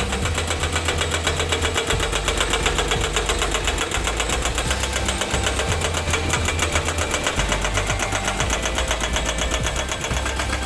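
Excavator-mounted hydraulic rock breaker hammering rock in a rapid, even rhythm, over the excavator's diesel engine running under load.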